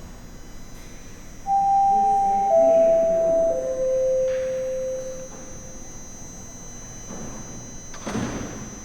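Toronto Rocket subway train's door-closing chime: three descending tones, each starting about a second after the last, the sign that the doors are about to close. Near the end comes a short burst of noise.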